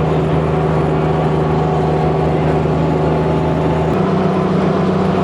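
The GMC straight-six engine of a WWII DUKW amphibious truck runs steadily under way, heard from aboard. About four seconds in, the engine note steps up slightly in pitch.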